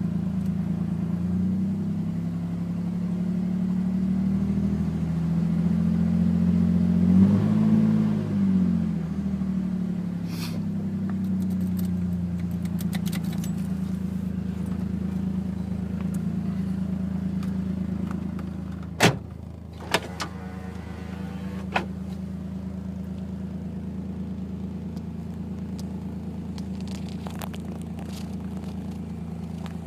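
Non-turbo Nissan Skyline R33 engine running, on a car that the owner says runs rough and misfires until it warms up. The revs rise and fall once a few seconds in, then settle back to a steady idle. A few sharp clicks come about two-thirds of the way through.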